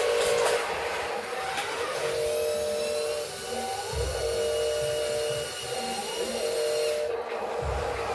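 A machine's steady whine, its pitch stepping up in a short rising glide about every two seconds, with a few low thuds underneath.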